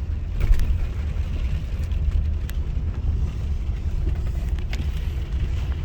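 Car moving slowly, a steady low rumble of engine and road noise heard from inside the cabin, with a few faint clicks.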